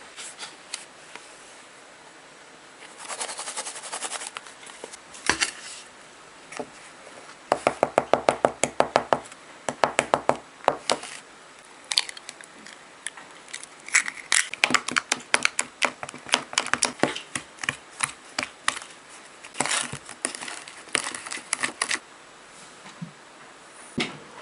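A kitchen utensil clicking against a bowl in quick runs of sharp strikes, several a second, with pauses between runs, as when mixing cake batter by hand.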